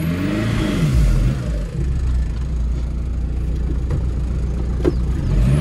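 Volkswagen Jetta diesel engine under load, its revs rising and falling back in the first second and rising again near the end over a steady low rumble. The car is pulling away sluggishly because it is in third gear by mistake.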